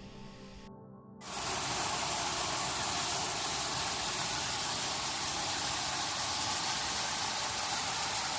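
Background music that cuts off abruptly about a second in, followed by the loud, steady rushing of a waterfall.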